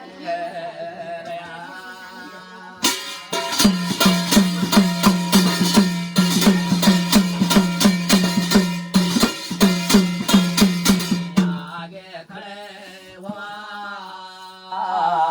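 Instrumental break in a Garhwali jagar song: a steady low drone throughout, with rapid loud percussion strikes, about four a second and ringing like metal, from about three seconds in until about eleven seconds in. Softer melody carries on around them.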